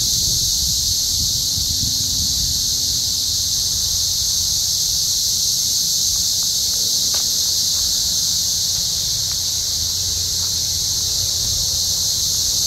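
A dense chorus of cicadas in the trees, a steady high-pitched drone that never lets up, with a low rumble underneath.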